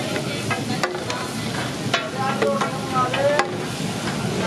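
Chicken pieces sizzling on a large flat iron tawa griddle, with a few sharp clanks against it.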